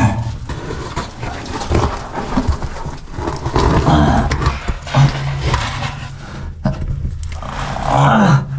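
A caver grunting and straining while forcing his body through a tight, muddy cave squeeze, with scraping and rustling of clothes against rock and mud. A few short groans bend in pitch, one about two seconds in and one near the end.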